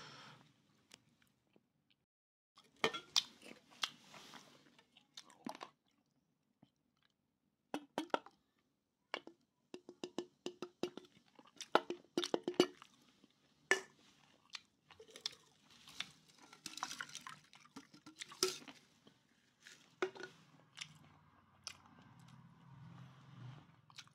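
Close-up chewing of boiled pork (pig snout, tail and trotter), with crisp crunches of cartilage coming in irregular bursts between short pauses.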